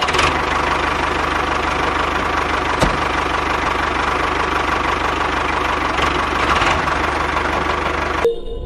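Small motor of a DIY mini tractor running steadily with a fast buzzing rattle, starting and stopping abruptly.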